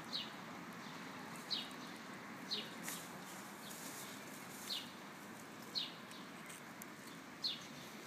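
A bird gives a short, high call that falls in pitch, six times, a second or two apart, over a steady background hiss.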